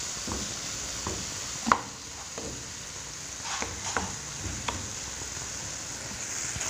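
Oncom (fermented soybean cake) frying with a steady sizzle while a wooden spatula stirs and breaks it up, scraping and tapping the pan now and then; the sharpest tap comes about a second and a half in, and a run of taps a little past halfway.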